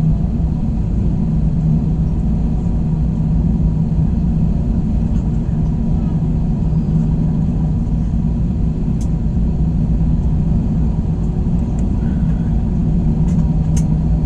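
Steady cabin drone of an Airbus A321 heard from a window seat: engine and airflow noise with a constant low hum, and a few faint clicks near the end.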